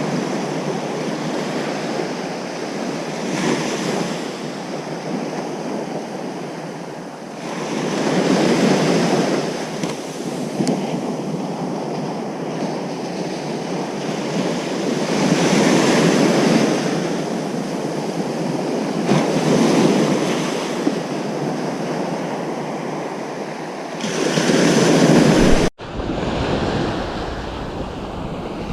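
Ocean surf breaking on a beach, a steady wash that swells as each wave comes in every few seconds. Low wind rumble on the microphone comes in near the end, and there is a sudden split-second dropout in the sound shortly before the end.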